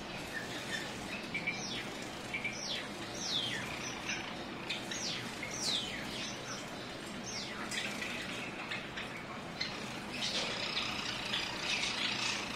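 Java sparrows calling: a string of short, high chirps that fall in pitch, growing busier and denser from about ten seconds in.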